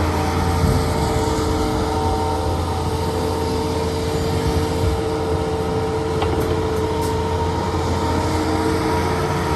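Heavy diesel engine of construction equipment running steadily with a constant low hum.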